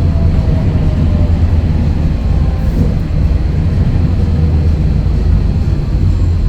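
Scania DSC11 diesel engine of a Scania L113CRL bus running steadily under way, a loud low rumble with a faint whine above it.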